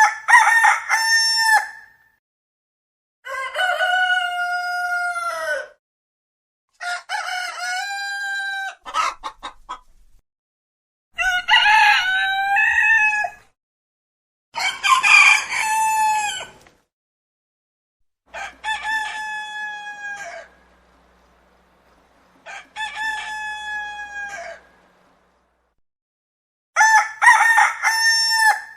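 Roosters crowing: eight separate crows of about two to three seconds each, with short silent gaps between them, the crows differing in pitch and shape from one to the next.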